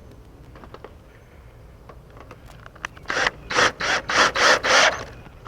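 Five quick scraping strokes, about three a second, starting a little after three seconds in.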